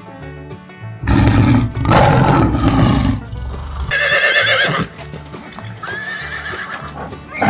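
Horse neighing over background music: a loud rough outburst about a second in, then a high quavering whinny around four seconds in and a shorter high call near the end.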